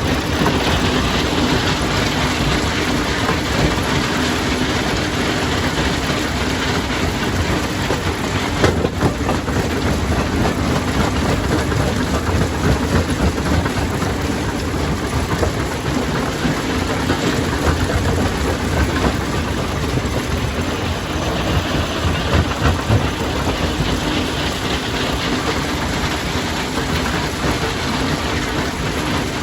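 Stone crusher running steadily, with a dense, continuous rattle of rock being broken up and a faint mechanical hum underneath.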